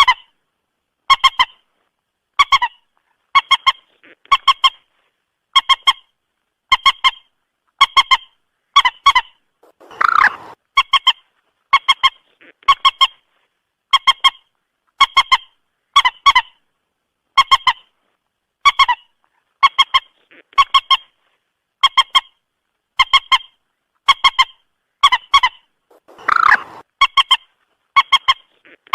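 Common moorhen calls, recorded and looped: short, clipped notes in tight groups of two to four, repeating about once a second over dead silence between groups. Twice, about ten seconds in and near the end, a longer, fuller call stands out.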